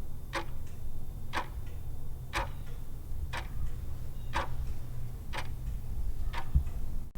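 Clock-ticking countdown sound effect, an even tick about once a second over a steady low hum.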